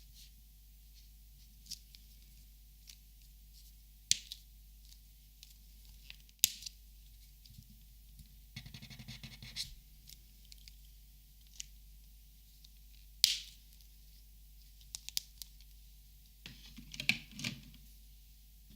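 Copic markers being handled and sorted: scattered sharp clicks and taps, a second of quick scratchy rattling about halfway through, and a cluster of clicks and scratches near the end.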